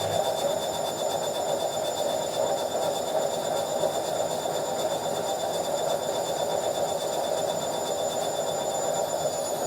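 Washing machine in its spin cycle, a steady rushing drum noise with a constant high-pitched whine over it.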